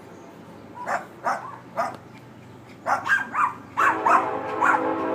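Dog barking over and over in quick groups of two or three barks. About four seconds in, a steady train horn starts and holds under the barking.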